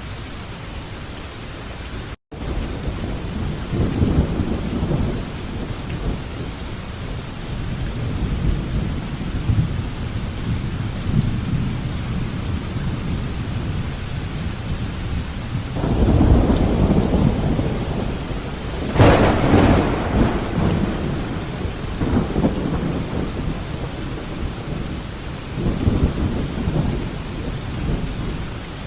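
Thunderstorm: steady heavy rain with repeated rolling rumbles of thunder. The loudest thunder starts about halfway through and peaks a few seconds later with a sharper, nearer crack. There is a split-second dropout to silence near the start.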